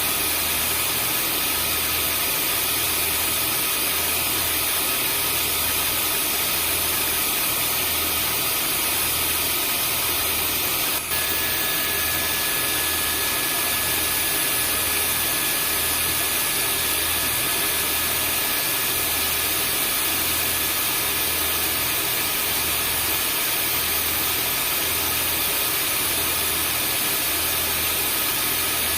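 Vacuum cleaner running steadily, played as white noise: an even rushing noise with several steady high-pitched tones over it and a slow, regular low pulsing. About eleven seconds in there is a brief dip, after which a new steady tone joins.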